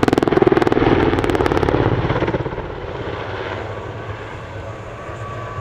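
Super Puma helicopter's main rotor with a fast, loud chopping beat, the rotor heavily loaded in a tight turn. After about two seconds the chop fades to a quieter, steadier rotor and engine sound.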